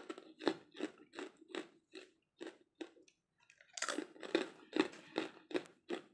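Close-up chewing of a mouthful of boiled sweet potato leaves, about three chews a second. There is a short pause a little past halfway, then the chewing comes back louder.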